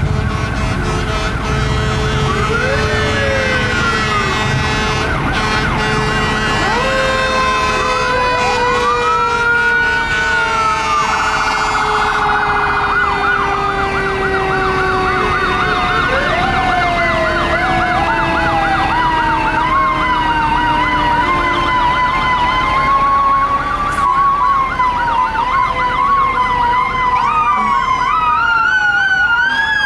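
Several fire truck sirens sounding at once, overlapping: rapid warbling yelps, rising and falling wails, and one long tone that falls slowly over many seconds.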